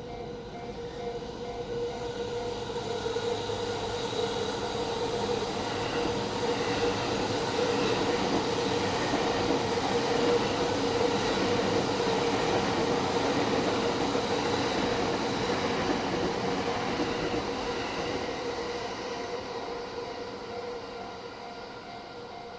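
A Yamanote Line electric train passes over the level crossing. Its running noise swells to a peak midway, then fades, with a steady tone running through it. The crossing's warning bell rings in repeating pulses at the start, is drowned out during the pass, and is heard ringing again near the end.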